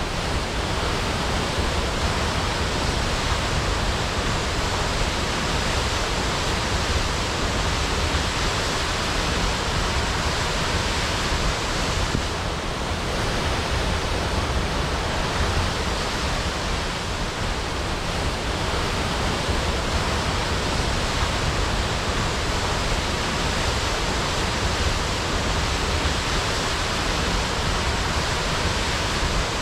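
Waterfall crashing: a steady, unbroken rush of falling water with a deep rumble underneath.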